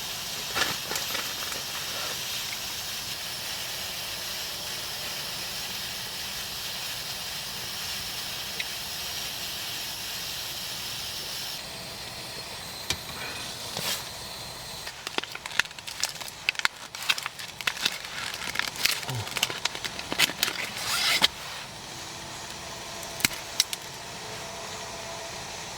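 Flameless ration heating pack reacting with water, giving a steady steamy hiss that drops abruptly about halfway. This is followed by a run of sharp crinkles and clicks of plastic packaging being handled.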